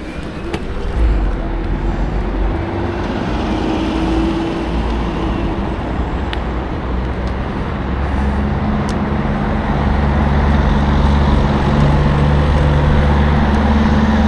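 Road traffic heard while riding an electric scooter: steady wind and road noise, with a low vehicle engine hum that grows louder in the second half.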